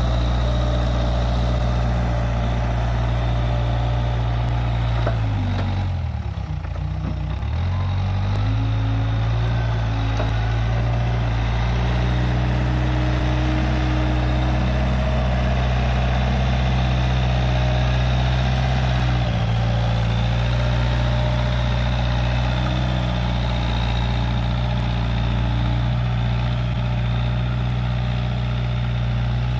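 Case 580G backhoe loader's diesel engine running steadily. About six seconds in, its pitch sags and then recovers within a couple of seconds, and it shifts slightly again past the halfway point.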